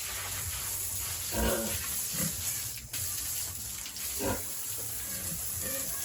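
Pigs grunting, with short louder grunts about a second and a half in and again just past four seconds, over a steady hiss.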